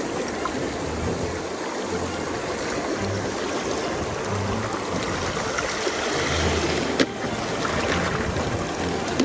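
Rushing river water, a steady flow of noise, with one sharp click about seven seconds in.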